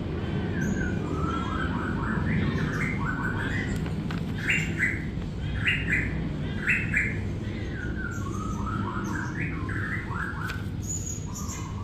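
Small birds chirping in short repeated calls, loudest about halfway through, over a steady low noise.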